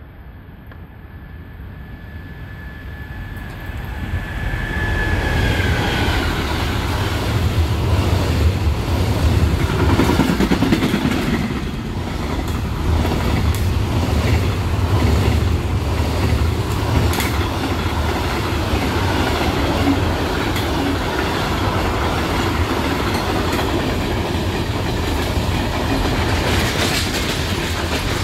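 A freight train passing at speed close by: the rumble builds over the first few seconds as it comes in, with a high whine that drops in pitch about five seconds in. Then comes the steady rumble of the freight wagons running past, with scattered sharp knocks of wheels over the rail joints.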